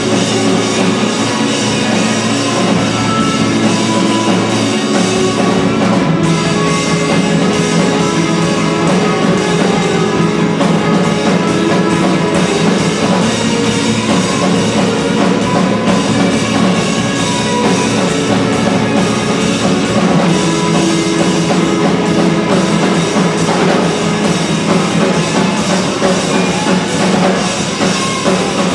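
Live band playing, with drum kit and guitar, loud and continuous.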